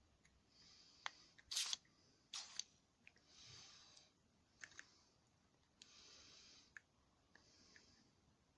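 Faint short hissing bursts of aerosol spray on a hedge trimmer's carburettor, five of them about a second each, between sharp clicks and taps of small parts being handled; the loudest sound is a single clack about one and a half seconds in.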